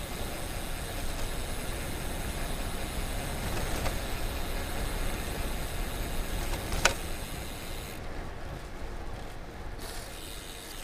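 Steady low rumble of street and traffic noise, with a single sharp click about seven seconds in.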